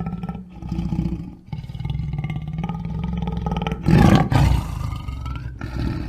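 Lion growling and roaring in a series of low calls with short breaks between them, the loudest roar about four seconds in.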